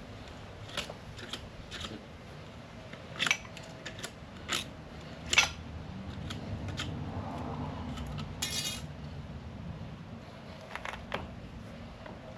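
Sharp clicks and light metallic taps of plumbing tools and pipe fittings being handled on a galvanized pipe joint, with a short rasp a little past the middle.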